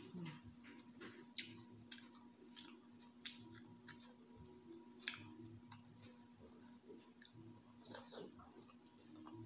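Faint close-up chewing and mouth sounds of someone eating, with scattered sharp wet clicks about every second, over a low steady hum.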